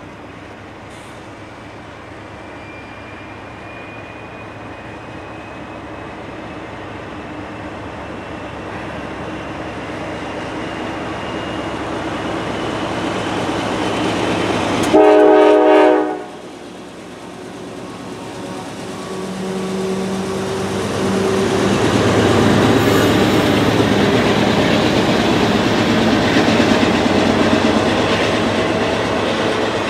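A diesel-hauled CSX freight train approaches, growing steadily louder, and the lead locomotive sounds one short horn blast about halfway through. The locomotives then pass with a heavy engine drone and wheels rolling on the rails, followed by intermodal trailers on flatcars rolling by.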